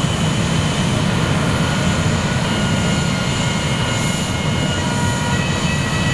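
F/A-18's twin jet engines running: a steady, loud rumble with several high whining tones that slide slowly in pitch.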